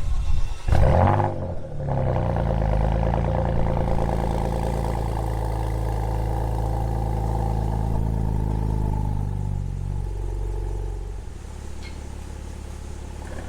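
Porsche Macan with an Armytrix valved cat-back exhaust cold-starting: a brief crank and a loud flare-up about a second in, then the engine settles into a steady fast cold idle. About ten seconds in, the idle drops lower and quieter.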